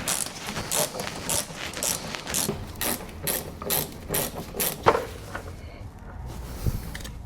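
Hand ratchet clicking in quick back-and-forth strokes, about two a second, as fasteners are driven in. It stops after one louder click about five seconds in.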